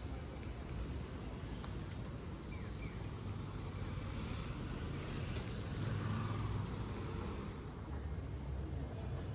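City traffic noise: cars running along the road beside the pavement in a steady rumble, a little louder about six seconds in.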